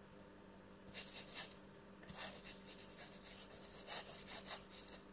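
Pen scratching across paper, writing a signature in quick, flowing strokes that begin about a second in and come in short rapid bursts, with a faint steady hum underneath.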